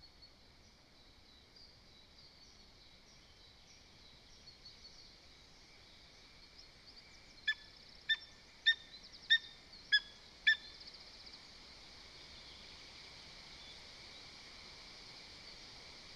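Lesser spotted eagle giving a series of six sharp yelping calls, evenly spaced a little over half a second apart, about halfway through. Faint songbirds twitter over a steady outdoor hiss.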